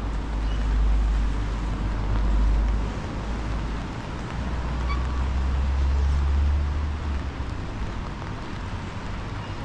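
Wind gusting across the microphone in two long buffeting rumbles, over a steady hiss of rain and wet street.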